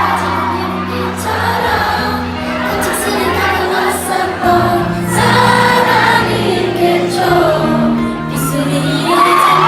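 A female vocal group singing a slow ballad live, with several voices over held accompaniment chords that change every second or two.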